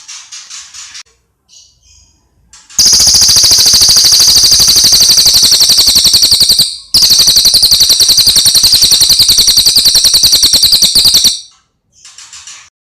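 A bird calling: a few faint chirps, then a very loud, fast rattling trill of high notes lasting several seconds, with one short break in the middle, and faint chirps again near the end.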